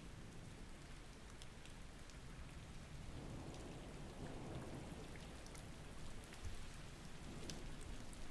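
Steady soft rain from a thunderstorm, with scattered drop ticks.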